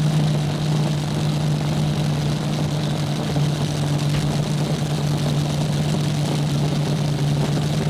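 Nitro-burning drag racing engines idling, a steady, even drone.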